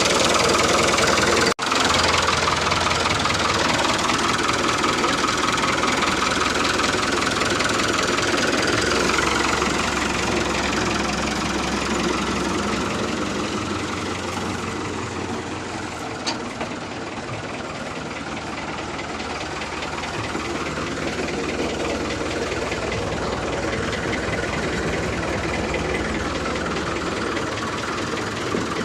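Engine running steadily with a fast, knocking beat. It cuts out for an instant about a second and a half in and eases a little quieter through the middle.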